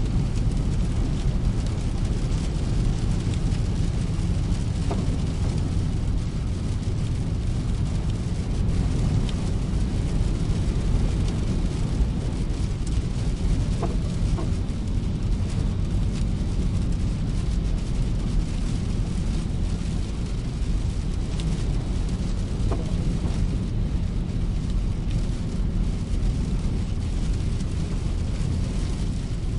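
A car driving in the rain: a steady low rumble of the car on the road under an even hiss of rain.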